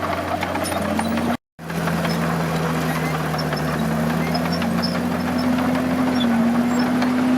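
Large diesel engine of heavy earthmoving machinery running, its pitch stepping up and down as the revs change. The sound cuts out completely for a moment about a second and a half in.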